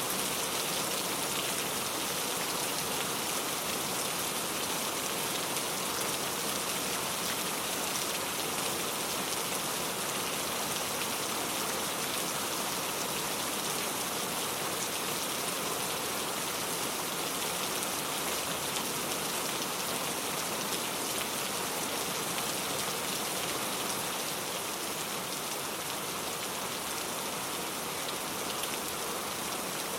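Steady rain falling, a constant even hiss of many drops on a surface.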